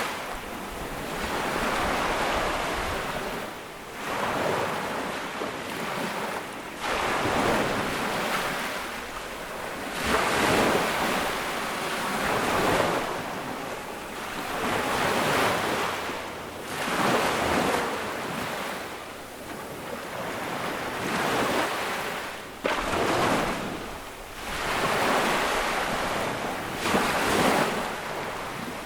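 Small ocean waves breaking and washing up on a sandy beach, a rushing surge every few seconds that swells and fades, with some wind noise on the microphone.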